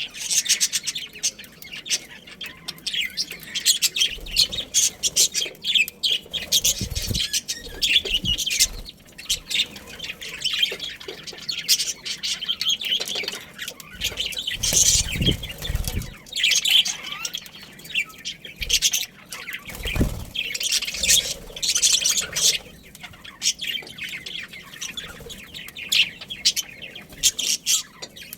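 Budgerigars chattering with dense, rapid, high chirps. A few low thuds come through now and then.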